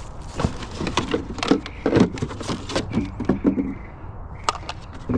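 Irregular knocks, clicks and clatter of assorted discarded items being picked up and shifted while rummaging through a junk pile.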